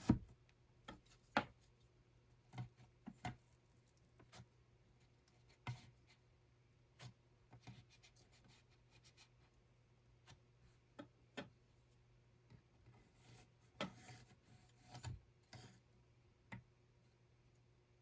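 Scattered light clicks, taps and rubbing of hands handling small objects, at an uneven pace, over a faint steady hum.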